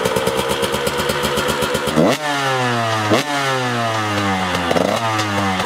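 KTM 125 SX two-stroke single-cylinder dirt bike engine running at a fast, even idle. About two seconds in it is blipped: three quick revs, each rising sharply and falling slowly back, the last one smaller.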